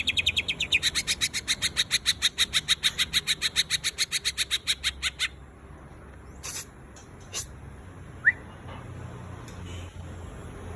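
Cucak ijo (green leafbird) singing a fast run of identical sharp, high notes at about eight a second for roughly five seconds, the rapid burst bird-keepers call a 'tembakan'; it stops abruptly and only a few single chirps follow, one a short rising note.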